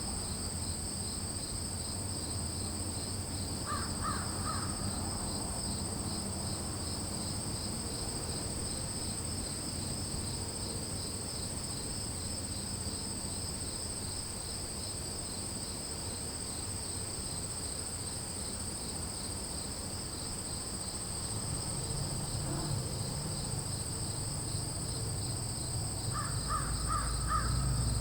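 Steady, high-pitched insect chorus with crows cawing in short runs of about three caws, once about four seconds in and again near the end, over a low background rumble.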